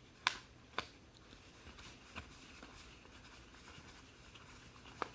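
Faint handling of a trading-card box and its packs: a few light, sharp snaps and scrapes of cardboard and wrapper, two close together early, one a couple of seconds in and one near the end.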